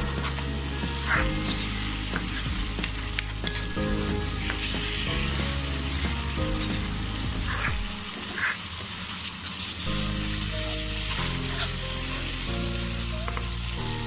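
Onion and spice paste sizzling in hot oil in a non-stick pan while a spatula stirs and scrapes it round: the masala being fried down (bhuna). Background music with held low notes plays under it.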